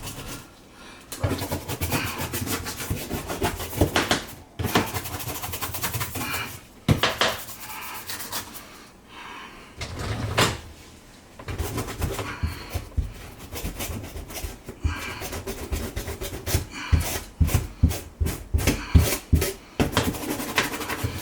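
Hand scrubbing and handling of a Frigidaire dishwasher's parts during cleaning: rubbing and scraping broken by scattered knocks. A quick run of knocks comes near the end.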